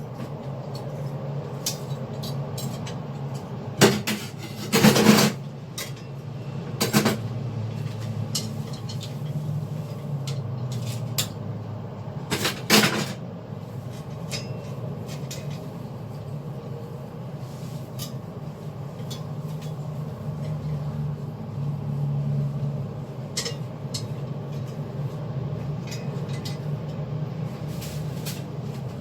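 Clinks and clatters of household items, such as dishes or utensils, being handled, with the loudest knocks about four to seven seconds in and again near thirteen seconds, over a steady low hum.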